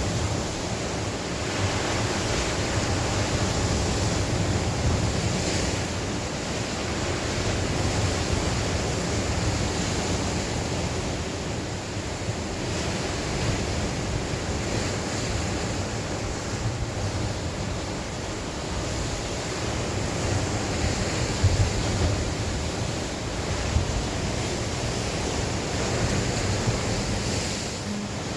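Sea waves breaking and washing on the shore in a steady surge, with wind rumbling on the microphone.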